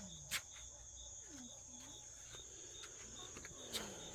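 Night chorus of crickets, a steady high trill, with a few faint low pig grunts and two sharp clicks, one soon after the start and one near the end.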